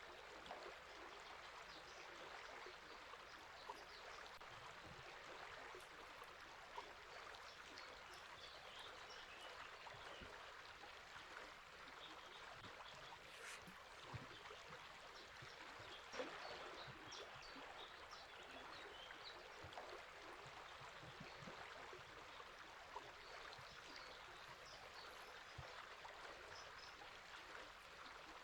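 Faint, steady running water of a river or stream, with scattered short bird chirps above it.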